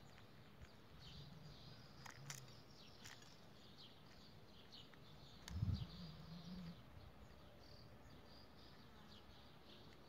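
Faint, scattered short high chirps of small birds, with a few light clicks. A brief low-pitched sound a little past halfway is the loudest thing.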